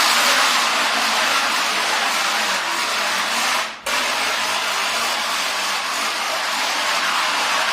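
An aluminium drink can held against a moving bicycle wheel's spokes, buzzing steadily like a motorbike as the bike is ridden. The buzz fades out sharply and cuts straight back in about four seconds in.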